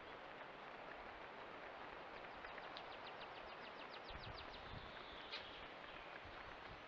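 A small bird gives a fast high trill of about seven notes a second for a couple of seconds midway, over the steady faint hiss of outdoor ambience on a trail camera's microphone. There is one brief click soon after the trill.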